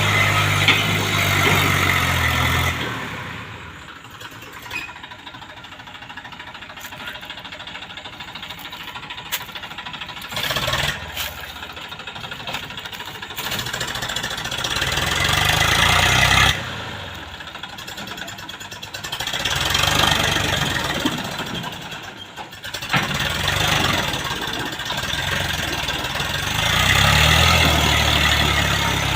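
Heavy diesel engine running, with its revs rising and falling several times. One swell, about two-thirds of the way through, cuts off suddenly.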